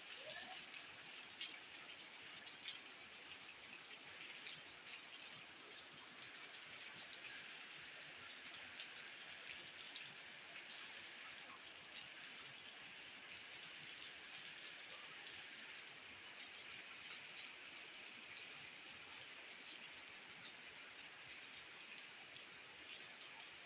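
Rain falling steadily, a faint even hiss dotted with many small drop ticks, one sharper tick about ten seconds in.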